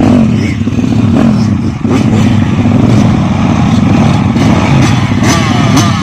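Motorcycle engine running loudly, its pitch rising and falling as it revs, with a few sharp knocks.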